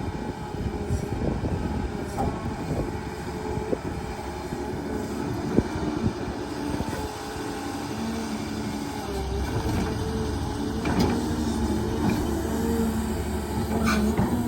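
Excavator at work: its diesel engine running with repeated metallic clanks and knocks, and a steady engine hum that comes in louder about two-thirds of the way through.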